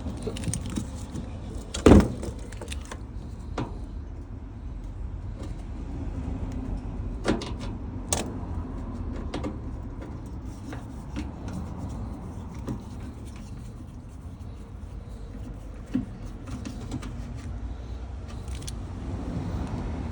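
Scattered clicks, knocks and light rattles of plastic and metal parts being handled while a washing machine drain pump is taken apart, with one loud knock about two seconds in.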